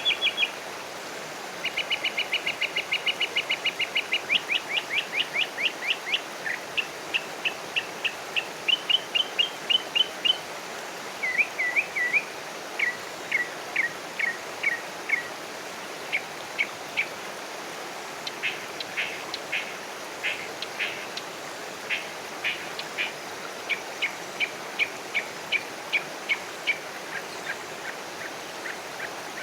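Small songbirds chirping in long series of short, high notes: a fast trill about two seconds in, then runs of chirps at a few notes a second that change pitch from run to run, over a steady background hiss.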